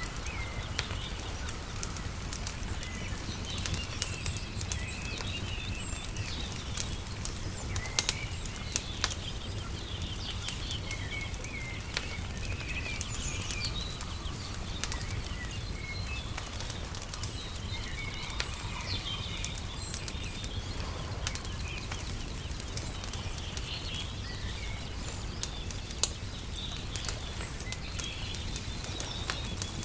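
Wood fire crackling, with scattered sharp pops over a steady low rumble, while small birds chirp and twitter throughout.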